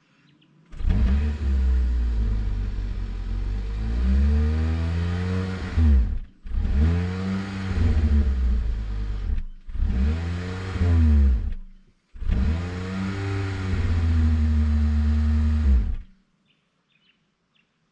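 Kia Niro plug-in hybrid's 1.6-litre petrol four-cylinder accelerating at full throttle. The revs climb, then drop back with a brief break at each upshift of the six-speed dual-clutch gearbox, three times, before the note evens out and stops about two seconds before the end.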